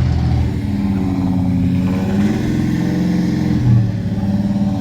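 Car engine running at low speed, its pitch drifting slightly up and down.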